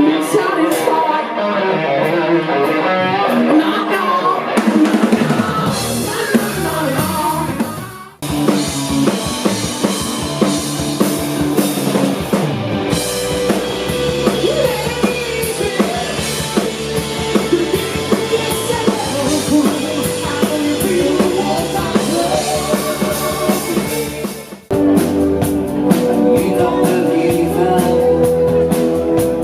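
Live indie rock band playing: drum kit and electric guitar with vocals. The music breaks off sharply twice, about eight seconds in and near twenty-five seconds in, each time resuming on a different passage.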